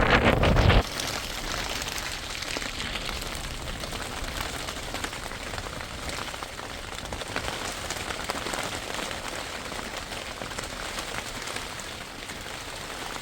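Steady rain falling, a dense patter of small drop hits. It opens with a loud gust of wind on the microphone that cuts off abruptly within the first second.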